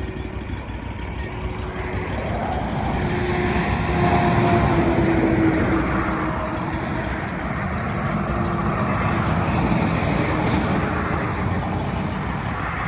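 Wood-Mizer LX450 sawmill's engine running steadily while the mill is worked. The sound swells about two seconds in, with a faint steady whine on top, and swells again near ten seconds.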